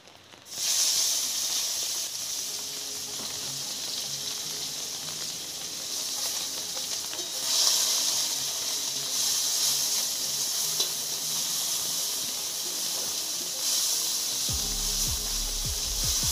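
Food frying in hot mustard oil in a wok: a loud sizzle starts suddenly about half a second in as ingredients go into the oil, and keeps going, swelling a couple of times as the pan is stirred.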